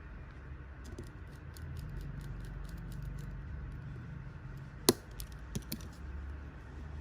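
Small hard clicks and taps, typical of tools handling a smartwatch on a repair bench, with one sharp click near five seconds in, over a steady low hum.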